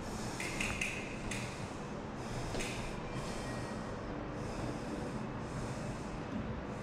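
Steady low background noise of a quiet indoor lobby, with a few brief crisp rustles or clicks about half a second, one second and two and a half seconds in.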